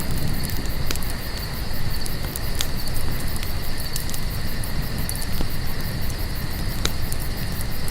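Crickets trilling and chirping steadily over a crackling campfire, with a few sharp pops from the fire and a low rumble beneath.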